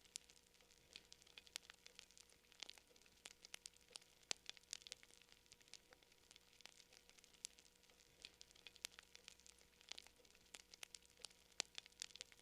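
Campfire crackling: irregular sharp pops and snaps from burning wood, several a second, over a faint hiss.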